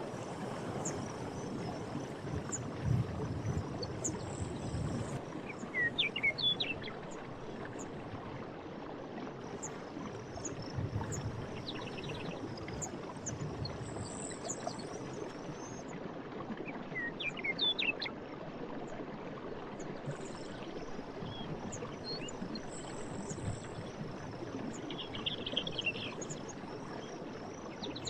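Stream water running steadily with a few louder gurgling swells, while small birds chirp in short bursts four or five times. A faint high insect chirring with regular ticks runs underneath.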